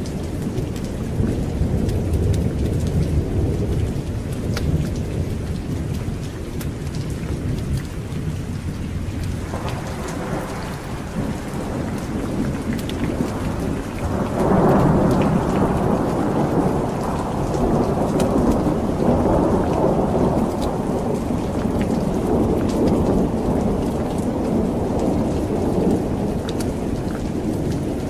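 Thunder rumbling over steady heavy rain. A low rumble sounds in the first few seconds, then a louder peal builds from about ten seconds in, peaks around fifteen seconds and keeps rolling until near the end.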